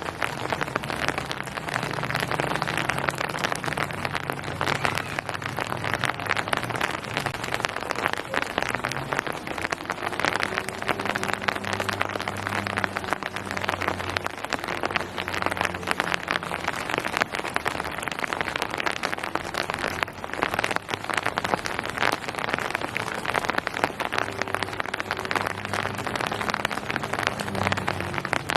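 Steady rain falling on surfaces: a dense, even patter of many drops, with a faint low hum underneath.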